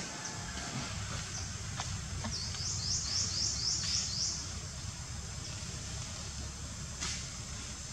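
A bird calling: a quick run of about eight high, rising chirps lasting about two seconds, a couple of seconds in, over a steady low rumble.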